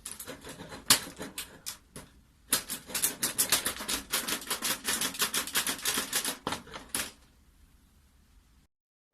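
Rapid, irregular light clicking and rattling of thin stainless steel sheet and rods being handled and fitted together, densest from about two and a half seconds in, stopping at about seven seconds.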